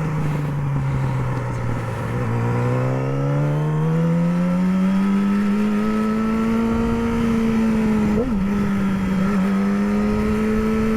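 Yamaha R6 sport bike's inline-four engine running under way, its pitch climbing smoothly from about two seconds in as it accelerates in gear, then holding steady, with a brief dip about eight seconds in.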